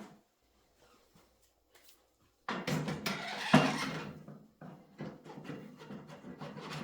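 Front fork leg being slid up into the motorcycle's fork clamps: a sudden rasping slide about two and a half seconds in with one sharp metallic click near its loudest point, then lighter scraping and handling noise.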